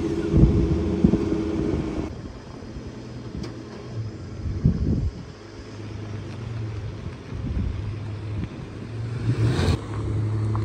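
Nissan Xterra SUV's engine running at idle, then pulling away near the end.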